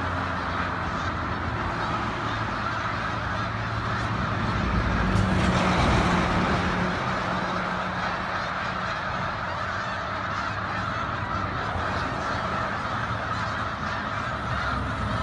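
A large flock of geese calling all at once, a dense, continuous din of overlapping honks.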